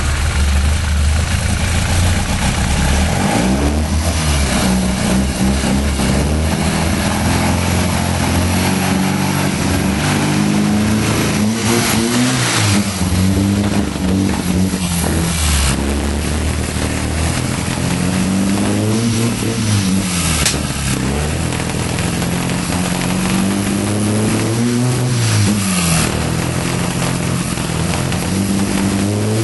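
Mini Marcos's BMC A-series four-cylinder engine running just after starting, the throttle blipped so the pitch rises and falls every few seconds.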